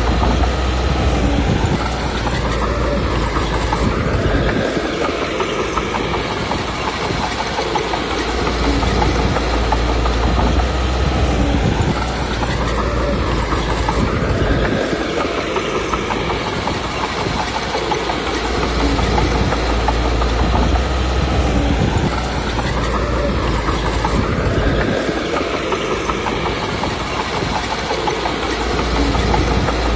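Komatsu D21P bulldozer's diesel engine running under load with its steel tracks clattering. The engine note rises and falls in a repeating cycle about every ten seconds, as the machine works back and forth.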